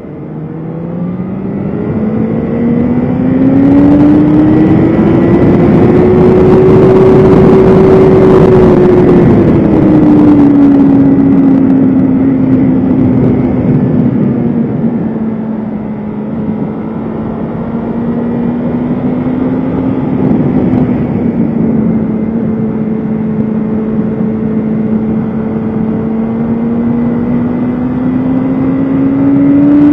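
BMW S1000RR inline-four engine running hard on track under a rush of wind. Its pitch climbs steadily over the first several seconds and drops back about ten seconds in. It then holds a lower, fairly steady note and climbs again near the end.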